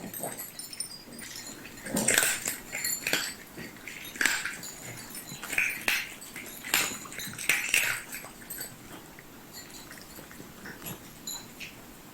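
A pet animal making short whimpering cries, about six in the first eight seconds, then going quieter.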